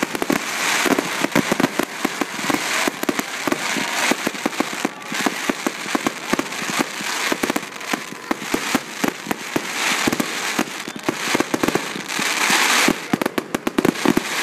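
Fireworks display: aerial shells bursting one after another with a dense, continuous crackle of many small pops, and swells of hissing crackle from the glittering stars.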